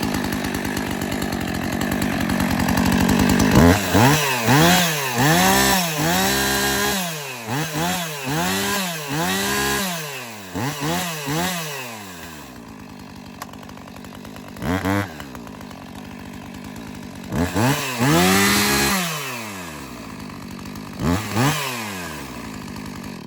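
2007 Husqvarna 450 two-stroke chainsaw running after a cold start: held steady at first, then revved in quick throttle blips about once a second, dropping to idle with a few more single revs, and cutting off at the very end.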